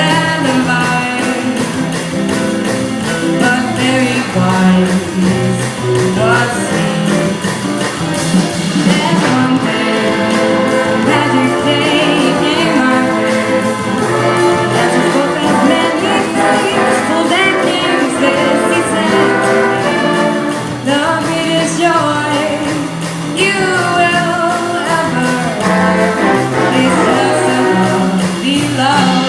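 Big band playing an instrumental passage, with trumpets and trombones carrying the melody over a steady bass line.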